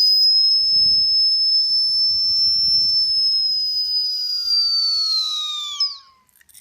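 A plastic siren whistle and a turbo exhaust whistle joined together and blown by mouth: a loud, steady, high-pitched whistle with a second, lower tone that rises, then slides down as the breath gives out, stopping about six seconds in. Air is very hard to push through the combination.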